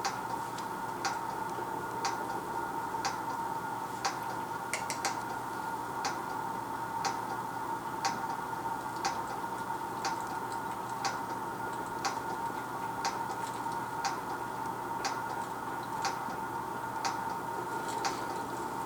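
Countdown timer ticking steadily, about two ticks a second, over a steady electrical hum.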